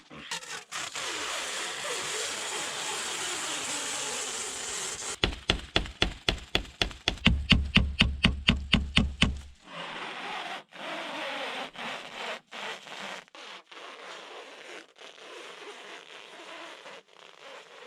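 Hand work on wood: a steady rasping at first, then a fast run of evenly spaced knocks, about five a second, each with a dull thud, then irregular scraping and scattered knocks.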